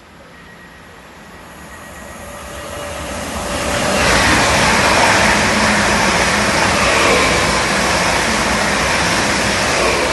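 A train approaching and running past on the main line, its rushing, rumbling noise building over about four seconds and then staying loud as it passes.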